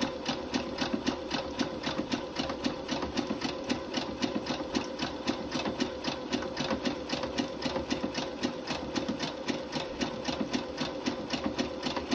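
Domestic sewing machine running steadily at about five stitches a second, stitching an elastic waistband back onto boxer shorts.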